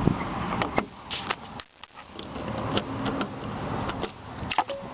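A few sharp clicks and knocks scattered over a steady low background rumble.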